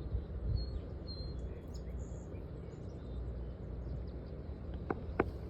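Steady outdoor background noise with a low rumble, with a few faint bird chirps about a second in and two sharp clicks near the end.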